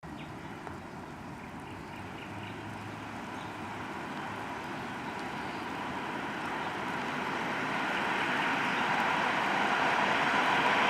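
ChS7 electric locomotive hauling a passenger train as it approaches: a steady rushing rumble that grows steadily louder.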